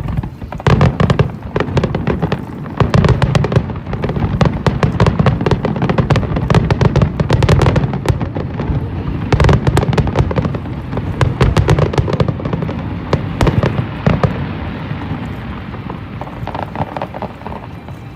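Fireworks display going off in a dense barrage of rapid bangs and crackles, thinning out over the last few seconds.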